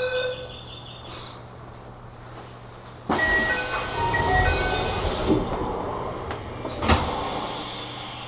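A train's pulsing door warning chime ends, then about three seconds in comes a sudden loud hiss and sliding clatter as the doors close, with a sharp knock about seven seconds in.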